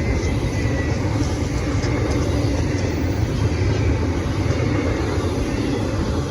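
Freight train rolling past close by: a steady, heavy rumble of wheels and cars on the track.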